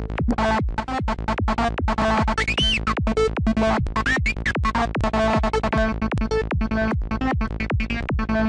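Dark, FM-like synth lead patch in Native Instruments Massive playing a fast repeating staccato pattern, about four to five short notes a second, each dropping in pitch. Filter sweeps rise and fall over it near the middle, from the patch's scream filter and LFO modulation.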